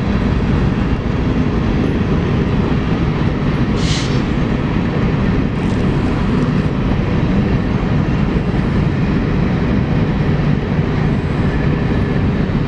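BNSF freight train rolling past eastbound, a steady heavy rumble of wheels on rail, with a brief high hiss about four seconds in.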